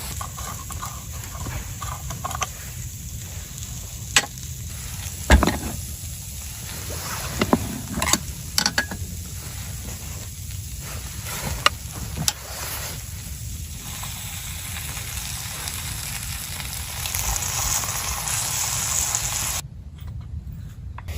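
Steady hissing noise with scattered sharp knocks and clicks through it; the hiss cuts out briefly near the end.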